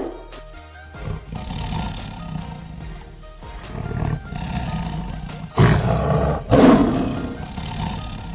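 A wild animal roaring twice, about a second apart, over background music.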